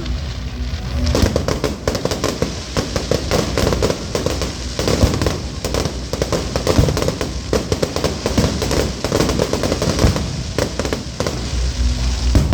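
Fireworks display: a dense, rapid crackle of many small pops, starting about a second in and running on until near the end.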